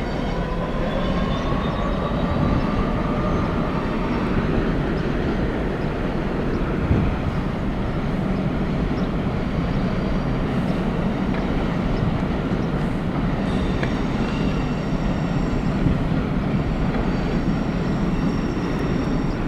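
Networker electric multiple unit train running through the station, a steady rumble of wheels and traction. Its motor whine rises in pitch over the first few seconds, and thin high tones join about two-thirds of the way through.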